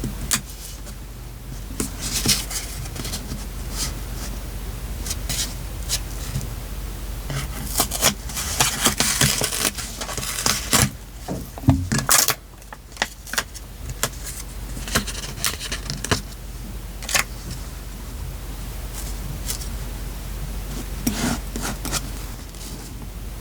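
Hand-crafting sounds at a desk during journal decorating: paper and small craft items being handled, with scattered clicks, scrapes and rustles, busiest around the middle, over a steady low hum.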